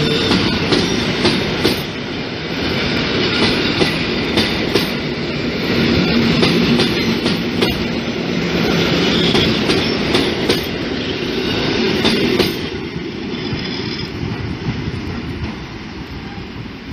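Koleje Mazowieckie EN57 electric multiple unit passing close by, with a steady rumble and wheels clattering over rail joints. The noise falls off about twelve seconds in as the train moves away.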